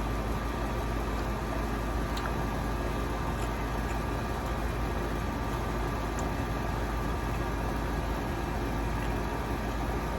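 Steady low mechanical hum, with a few faint short clicks about two, three and six seconds in.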